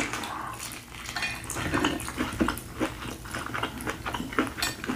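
Close-miked eating sounds: chewing with many quick wet mouth clicks and smacks as corn on the cob is bitten and chewed, and fingers are licked.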